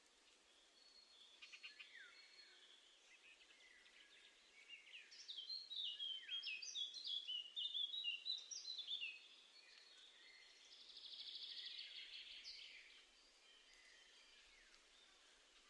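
Small garden songbirds calling and singing: a few scattered calls, then a run of quick, high chirping notes in the middle, followed by a rapid trill about eleven seconds in.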